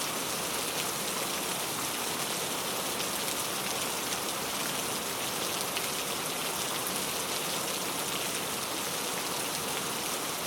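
Steady heavy rainfall: an even hiss of rain on surfaces with fine patter of drops.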